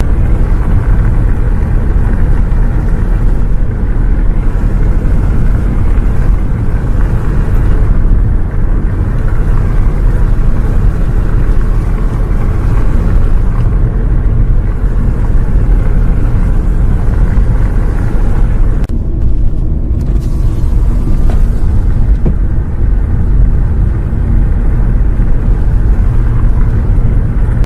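Steady low rumble of a bus on the move, heard from inside: engine and road noise, with a brief lull in the higher hiss about two-thirds of the way through.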